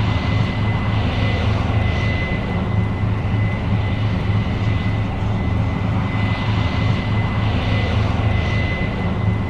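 New Holland CR 7.90 combine harvester running steadily, a constant low engine drone with a thin, steady high whine over it.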